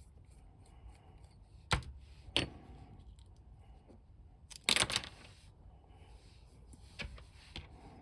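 Small sharp clicks and taps from a plastic G.I. Joe Zartan action figure being unscrewed and taken apart by hand: two single clicks, a short cluster about five seconds in, and one more near the end.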